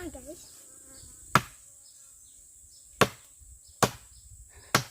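Four separate chopping strokes into a tree trunk, unevenly spaced, as the tree is being cut down. A steady high insect drone runs underneath.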